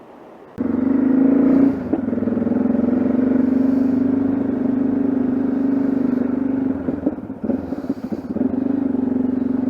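Yamaha XT660Z Ténéré's single-cylinder engine running at a steady pitch, cutting in abruptly about half a second in and wavering briefly near the end.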